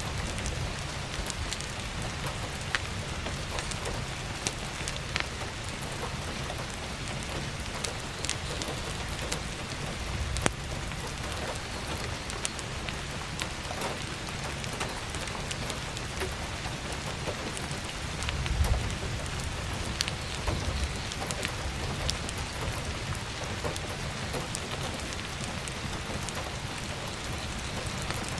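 Steady heavy rain with scattered sharp clicks, and a brief low rumble about two-thirds of the way through.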